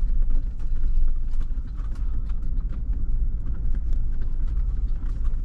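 Off-road vehicle driving slowly over a rough dirt trail: a steady low rumble of engine and tyres, with many irregular small knocks and rattles from gravel and the jolting body.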